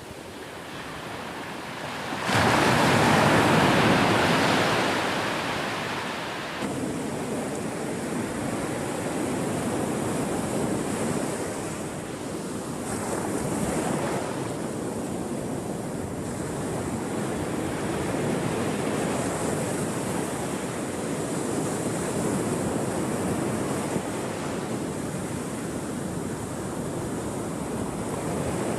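Ocean waves breaking on a shore: about two seconds in a big wave crashes loudly, then the surf settles into a steady wash that swells and eases every few seconds.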